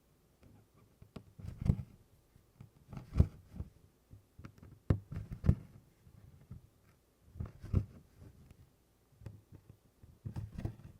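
Needle and embroidery floss being pushed and pulled through 24-count cross-stitch canvas: short taps and rustles of fabric and thread that come irregularly, about every one to two seconds.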